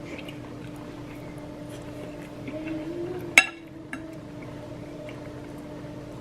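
Quiet kitchen background: a steady hum with faint ticking, and one sharp, ringing clink of dishware or a utensil a little past halfway.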